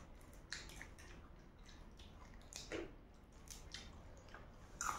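Faint wet chewing and lip-smacking from people eating spicy chicken feet, with a handful of short, soft smacks and clicks scattered through.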